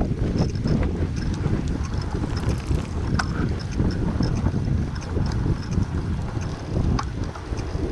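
Wind buffeting the microphone on a moving bicycle: a loud, uneven low rumble, with a few sharp clicks about three seconds in and near the end.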